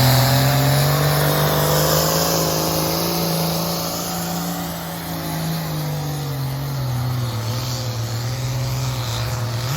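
A pulling truck's or tractor's diesel engine running hard under load: a steady, loud engine drone whose pitch drops a little about two-thirds of the way through.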